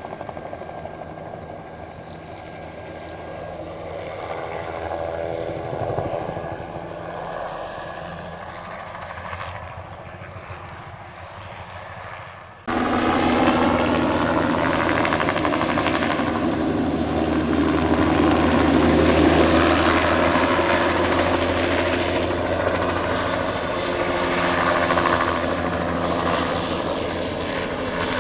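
Single-turbine crop-spraying helicopter in flight, a steady rotor and engine noise with a high turbine whine. About halfway through the sound jumps abruptly much louder and closer.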